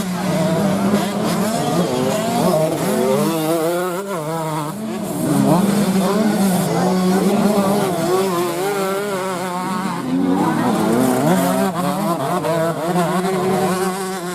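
Several dirt-bike engines running and revving at once, their pitches rising and falling over a steady low drone.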